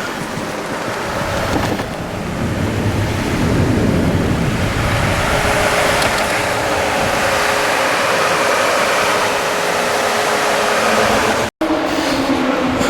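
Historic rally car engine running hard and growing louder as it approaches, mixed with wind noise on the microphone. The sound breaks off abruptly near the end at a cut, then a similar engine sound resumes.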